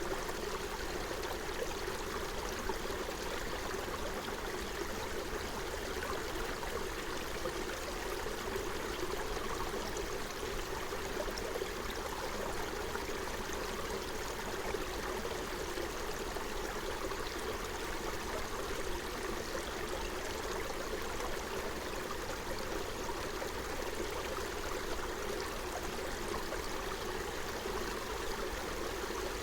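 Forest stream running over stones: a steady, even burble of flowing water.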